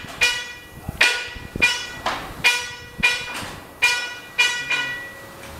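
Hammer blows on a metal plate or part, about eight at an uneven pace, each one ringing with a clear metallic tone that fades before the next.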